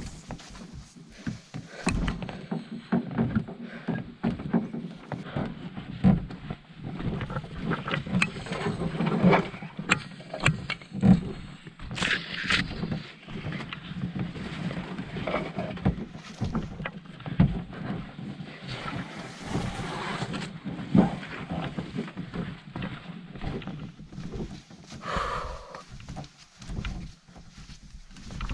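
Canoe being paddled: irregular paddle splashes and water against the hull, with scattered knocks of the paddle on the boat.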